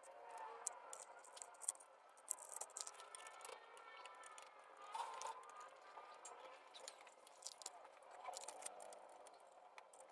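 Faint, irregular clicking and light rattling of small parts being handled during a toy RC truck gearbox repair.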